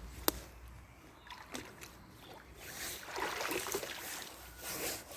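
A fishing magnet on its rope being pulled up out of the water, with sloshing and dripping that swell over the last couple of seconds. A single sharp click comes shortly after the start.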